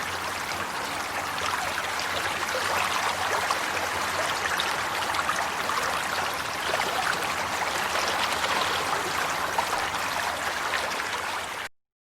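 Running water flowing steadily, an even rushing haze flecked with small splashes, that cuts off suddenly near the end.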